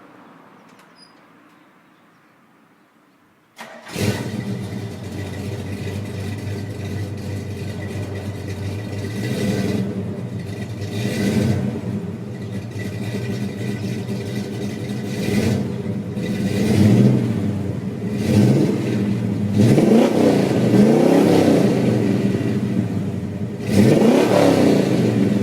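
Pontiac GTO's V8 engine starting with a sudden catch about four seconds in, then running at idle with repeated blips of the throttle. The revs rise and fall several times, coming stronger and closer together in the second half.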